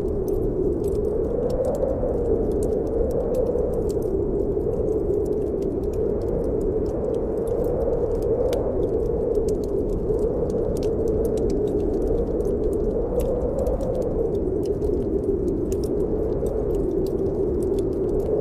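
Snowstorm wind blowing steadily with a slow, wavering howl, over the crackling of a wood fire in a fireplace, many small sharp pops scattered throughout.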